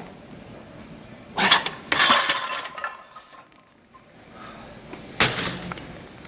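Metal gym weights clanking: a sharp clank about a second and a half in, a ringing cluster of clanks just after, and another clank near the end.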